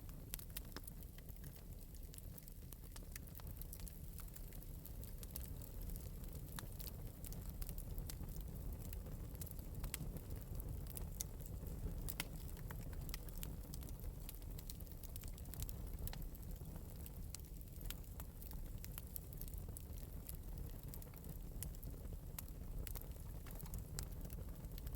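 Wood fire burning in an open metal fireplace, crackling steadily with many small scattered pops over a low, even rumble of flame.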